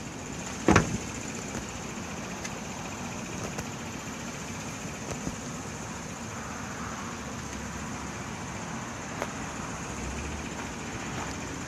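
A motor vehicle's engine running steadily at idle, with one sharp knock about a second in.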